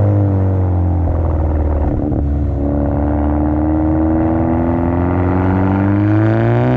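Exhaust of a 2017 Hyundai Elantra Sport's 1.6-litre turbocharged four-cylinder running through a muffler-, resonator- and second-cat-deleted quad exhaust while driving. The engine note holds steady, shifts about two seconds in, then rises slowly as the engine pulls up through the revs.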